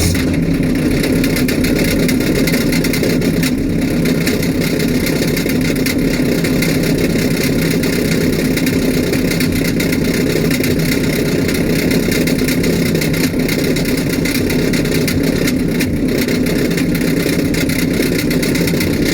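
A 6.2-litre Detroit Diesel engine idling steadily just after a cold start.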